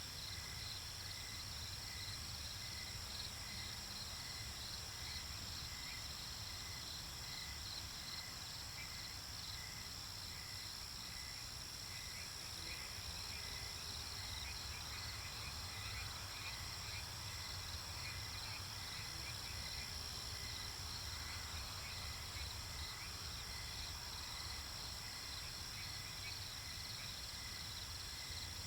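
Night-time nature ambience: crickets and other insects chirping and trilling steadily, with rapidly repeating chirps over a continuous high trill and a low rumble underneath.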